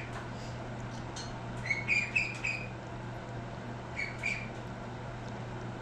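Birds chirping: a run of short high calls about two seconds in and a couple more about four seconds in, over a steady low hum.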